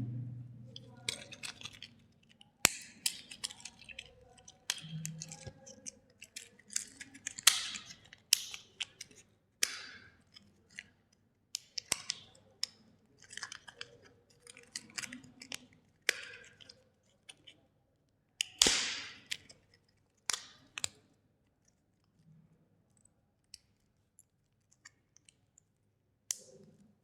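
Hard plastic being handled: a quick run of crackles, clicks and snaps, with one louder crack a little after the middle, then a few faint clicks near the end.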